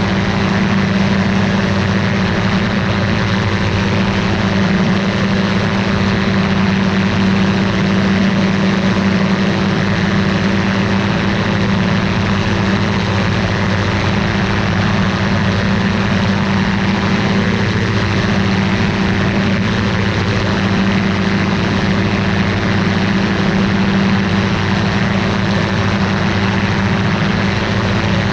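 Ultralight aircraft's engine and propeller running steadily at constant power, with a steady rushing hiss of air alongside.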